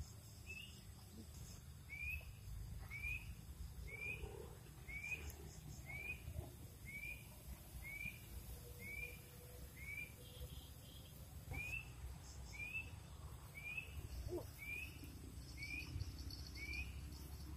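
A bird repeating one short, rising chirp about once a second, with a brief pause midway, faint over a low rumble.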